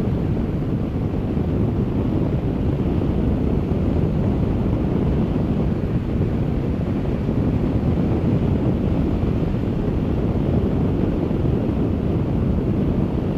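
Steady wind rush and road noise on the microphone of a motorcycle riding at speed.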